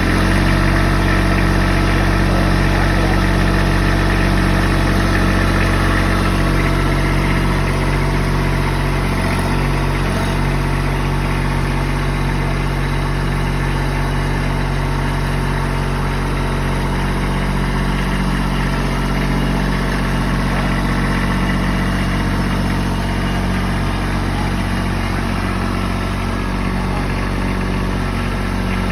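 Kubota B2601 compact tractor's three-cylinder diesel engine running steadily, with small shifts in its note along the way.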